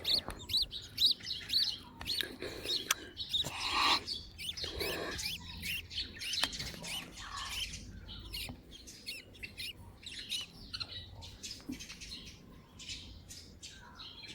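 Budgerigars chirping: a string of short, high chirps, thick in the first few seconds and then sparser.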